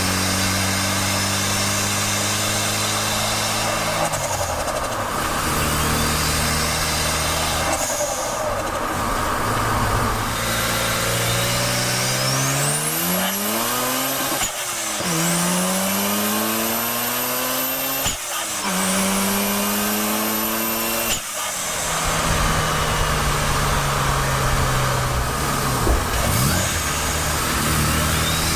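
Mazda RX-7's twin-turbo twin-rotor Wankel engine, heard from inside the engine bay: idling, blipped twice, then revved hard in two longer pulls with a high rising turbo whistle, then back to idle. Two sharp clicks come as the revs drop.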